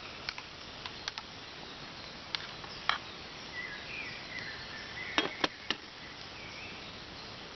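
Frying pan of onion and carrot sizzling steadily, with a few sharp pops and crackles scattered through. Faint bird chirps around the middle.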